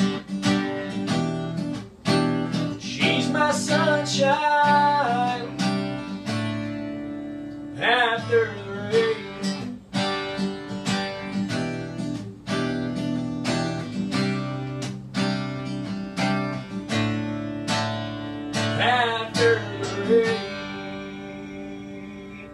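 Acoustic guitar strumming the instrumental outro of a song, with a few short melodic runs over the chords; the last chord rings out and fades near the end.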